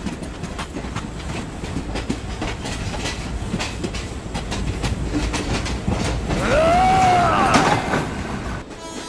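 Passenger train running past, its wheels clicking over the rail joints with a steady rumble. About six and a half seconds in, a man lets out a loud yell lasting about a second and a half.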